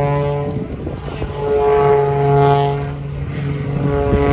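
Aerobatic display plane's piston engine and propeller droning at a steady pitch. The sound swells and eases back twice as the plane flies.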